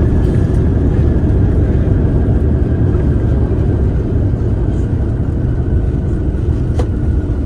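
Loud, steady cabin rumble of a Delta Airbus A350-900 with Rolls-Royce Trent XWB engines on its landing rollout, with a faint high whine slowly falling in pitch. One faint click near the end.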